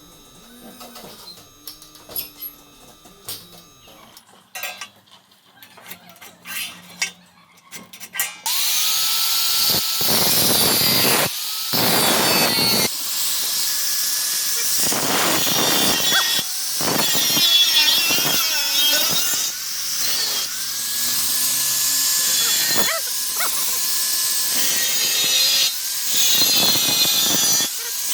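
Power tool working in long stretches, loud and harsh, with short breaks and a pitch that rises and falls as it spins up and down. Before it starts, about eight seconds in, there are only quieter scattered clicks and knocks.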